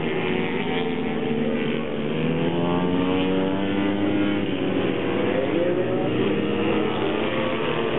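Several small racing minibike engines running at once, their pitches rising and falling as the riders rev up, shift and ease off through the track.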